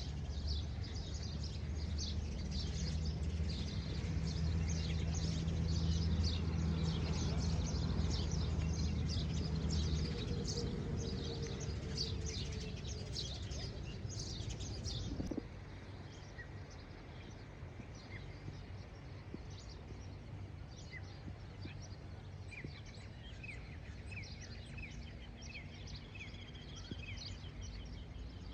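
Many small birds chirping, thick and busy for the first half over a low steady hum that stops about a third of the way in. Halfway through the sound cuts sharply to a quieter scene with sparser chirps.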